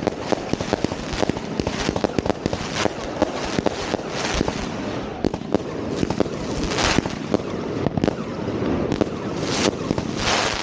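Fireworks going off: a dense, unbroken stream of bangs and cracks, with a few short hissing bursts among them.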